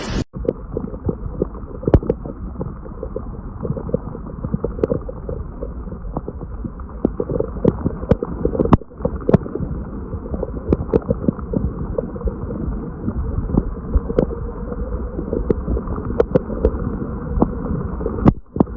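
Heavy rain and running water, muffled and dull, with many irregular knocks and taps of drops striking a hard surface. The sound breaks off briefly twice.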